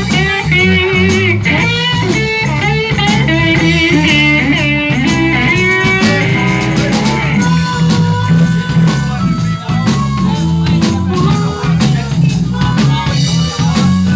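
Live blues band playing an instrumental break: a lead electric guitar solo with bending, wavering notes over bass and drums.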